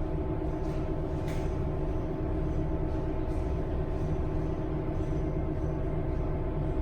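Steady drone of packing-shed machinery running, a low rumble with several steady humming tones and a few faint ticks.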